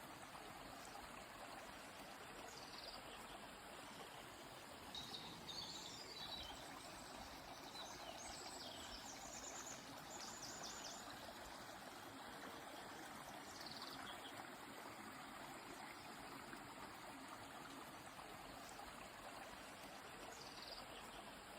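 Steady faint rush of a flowing river, with songbirds calling over it. A run of quick high chirps and a rapid trill come about a third to halfway in, and single calls follow near the middle and the end.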